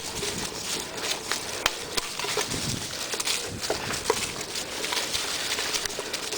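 Bicycle riding along a woodland trail: a steady rush of tyre and trail noise with many irregular crackles and clicks from the ground under the wheels.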